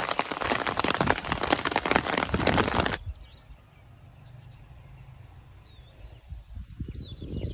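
Heavy rain pattering steadily on a wet road, cutting off abruptly about three seconds in. After that comes a quieter stretch of wind buffeting the microphone, with a few faint bird chirps.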